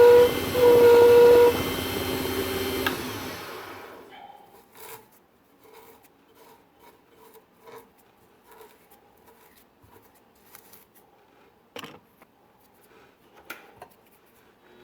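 Small lathe spinning an acrylic pen blank, with a turning tool squealing against the acrylic in two short bursts in the first second and a half. The lathe then winds down and stops about four seconds in, leaving only faint clicks and taps of handling.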